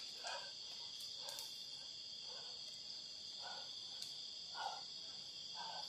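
Faint steady chorus of crickets or similar insects, a continuous high trill. Soft faint sounds come about once a second under it.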